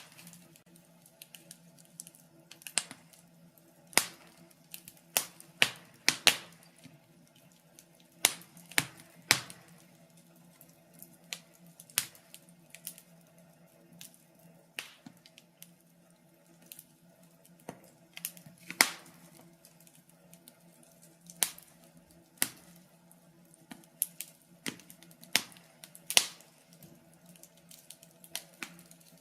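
Fire in a fireplace crackling, with irregular sharp pops, some louder than others, coming about once or twice a second over a faint steady hum.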